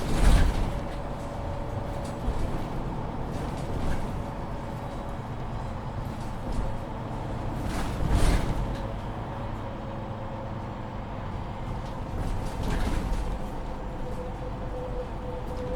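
Inside a MAN Lion's City 19C EfficientHybrid articulated city bus: the drivetrain runs with a steady whine, with louder sudden bursts about half a second in and about eight seconds in, and a weaker one around thirteen seconds.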